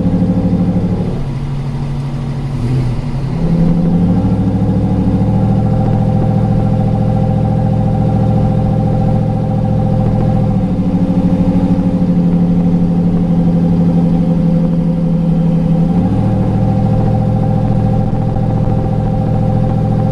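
Built 6.0L LQ9 V8 with headers and a Comp cam, heard from inside the truck's cab, running steadily at low revs. The note drops away briefly about a second in, then settles again and shifts pitch slightly a few times.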